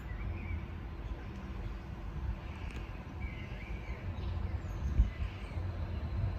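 Low rumble of a Stadler Class 755 bi-mode unit approaching on diesel power, growing slightly louder, with a brief bump about five seconds in. A few birds chirp over it.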